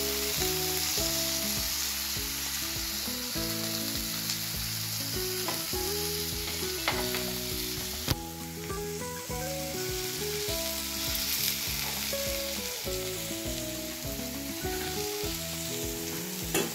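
Marinated chicken pieces sizzling in hot oil on a ribbed grill pan over a gas flame, a steady frying hiss. Under it plays soft background music of changing notes, and a couple of sharp clicks about seven and eight seconds in.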